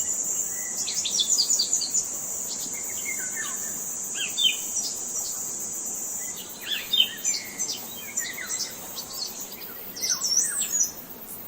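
Several birds chirping and twittering in quick, sweeping notes over a steady high insect drone, like crickets. The drone fades out about two-thirds of the way through.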